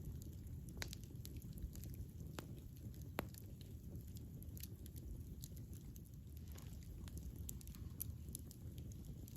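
Campfire burning with a low steady rumble and scattered crackles and pops of burning wood, a few sharper snaps in the first few seconds.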